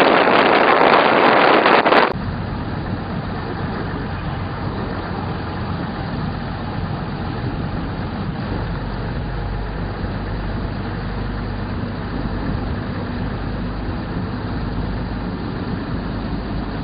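Wind rushing loudly past an open train window, which about two seconds in gives way abruptly to the steady rumble of a moving train heard from inside the carriage, with a low hum underneath.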